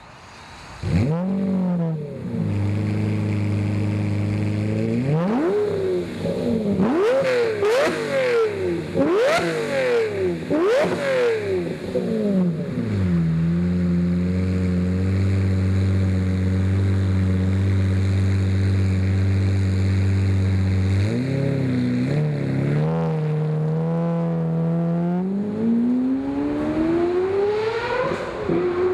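2009 Lamborghini Murciélago LP640's V12 running through a Fabspeed X-pipe muffler-bypass exhaust with sport catalytic converters. It comes in about a second in and idles, then gives a run of about five quick throttle blips, settles to a steady idle, blips twice more and climbs in one long rising rev near the end.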